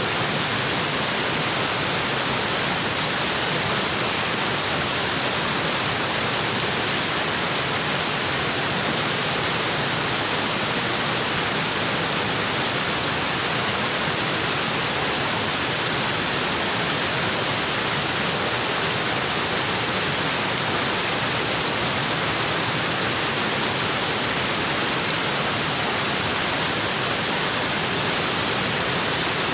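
Waterfall: water pouring onto rocks in a steady, dense rush that never lets up.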